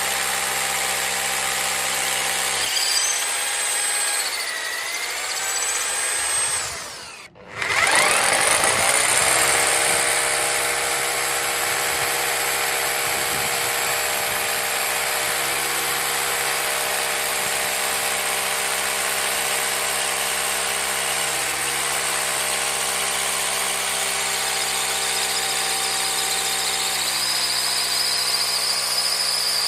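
Parkside PBH 1050 D4 rotary hammer running with a steady motor whine. About seven seconds in it winds down almost to a stop, then spins straight back up with a rising whine and runs steadily again.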